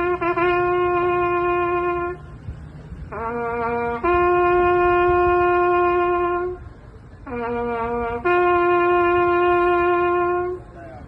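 Trumpet playing a slow call in long held notes. Each phrase opens with a short low note and a short note about an octave above it, then moves to one long sustained note, with a brief pause between phrases.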